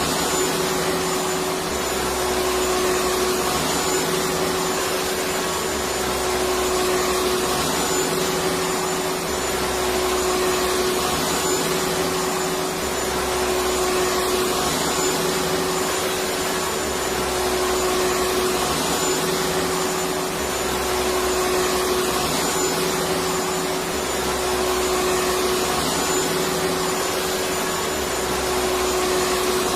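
Vacuum cleaner running continuously: a steady motor hum over a constant rush of air, swelling slightly and evenly every few seconds.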